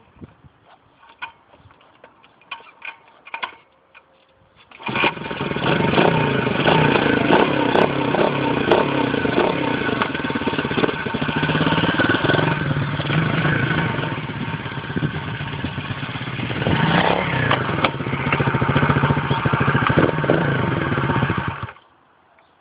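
Engine of a 125 cc dirt bike, freshly fitted, starting about five seconds in after a few faint clicks. It runs for about seventeen seconds with the revs rising and falling, then stops abruptly.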